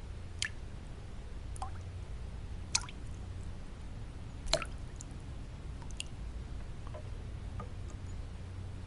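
Water drops falling one at a time at irregular intervals, each a short bright plink, the loudest a little past halfway, over a steady low rumbling white-noise bed.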